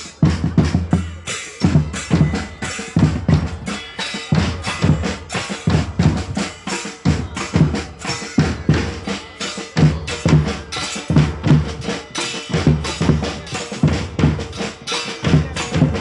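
Percussion music with a steady beat: heavy bass drum strokes with snare hits, going on without a break.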